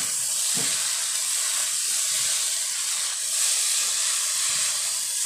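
Yellow egg noodles with beaten egg frying in a hot oiled wok: a steady sizzling hiss as they are stirred and tossed with spatulas.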